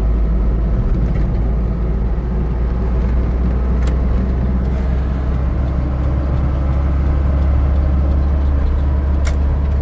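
Truck cruising on an expressway, heard from inside the cab: a loud, steady low drone of engine and road noise, with two faint ticks.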